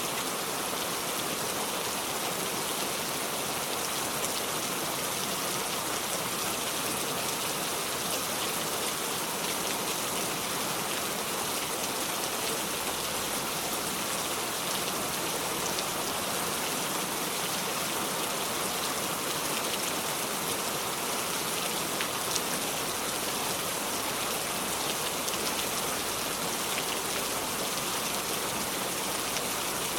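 Steady heavy rain falling without thunder, an even hiss with faint individual drop ticks here and there.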